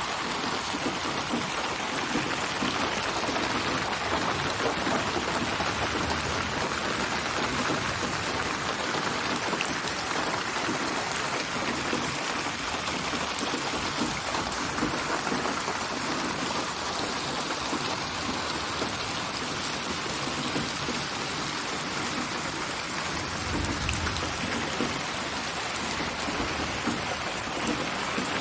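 Steady rain falling and pattering on surfaces, an even hiss of drops throughout. A brief low rumble swells and fades about 24 seconds in.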